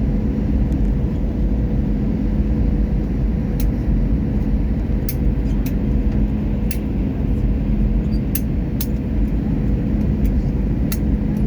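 Airliner cabin noise during descent: a steady low rumble of engines and airflow with a constant hum, and a few faint sharp ticks scattered through it.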